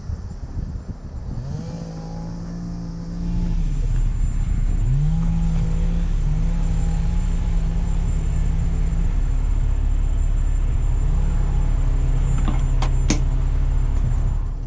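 Tow truck engine brought up to a held higher speed to drive the PTO-powered winch during a pull, rising, dropping back and rising again several times over a deep steady rumble that starts about three and a half seconds in and cuts off near the end. A couple of sharp clicks near the end.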